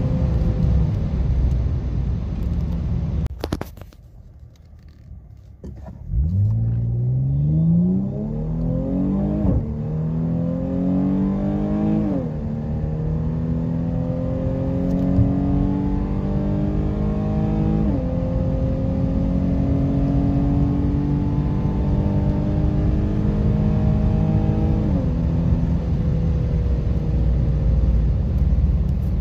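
The 3.6-litre Pentastar V6 of a Dodge Challenger SXT AWD with aftermarket Flowmaster mufflers, heard from inside the cabin. At high speed the engine eases off, then after a short quieter spell it launches at full throttle. Its pitch climbs steadily through the gears of the automatic transmission, with four upshifts, each a sudden drop in pitch.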